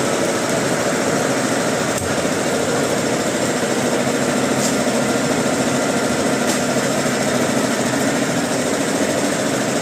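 Log-processing machinery running steadily at constant speed, with a few faint clicks.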